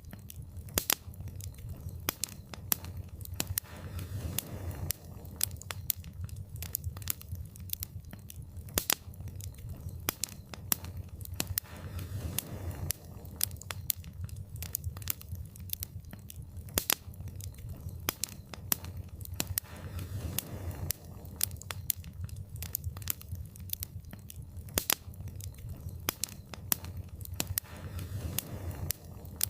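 Wood fire in a fireplace crackling, with many sharp irregular pops and snaps over a steady low rumble of the flames. Soft whooshing swells come about every eight seconds.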